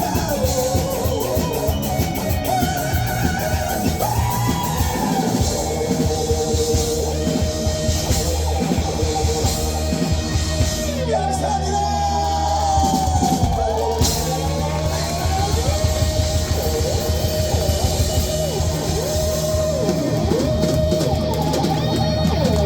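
Live rock band playing an instrumental stretch of the song: drums, bass and electric guitars, with a lead line that slides up and down in pitch above them.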